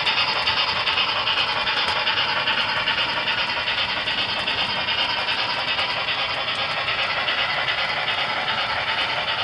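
Model B&M T1b 2-8-4 steam locomotive hauling a freight train: a steady, rapid mechanical clatter of its running gear and the cars on the track.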